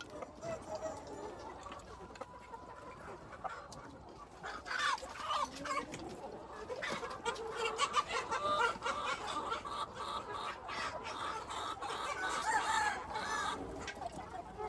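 A flock of chickens clucking and calling, with many short overlapping calls that grow busier about five seconds in.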